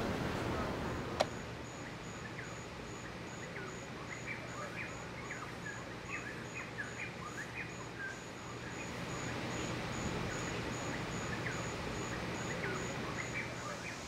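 Many short bird chirps over a steady low rushing noise, with a high, evenly pulsed note repeating a few times a second beneath them. A single sharp click about a second in.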